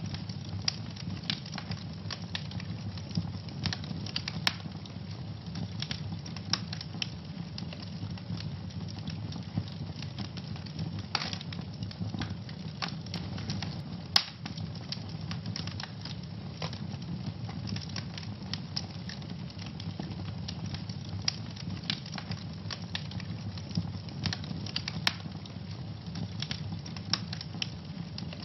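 Wood fire in a fireplace crackling, with irregular sharp pops and snaps over a steady low rumble of the flames; one pop about halfway through is louder than the rest.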